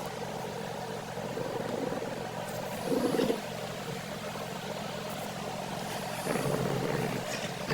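A steady engine hum, like a car running, with two brief louder swells: one about three seconds in and a longer one near the end.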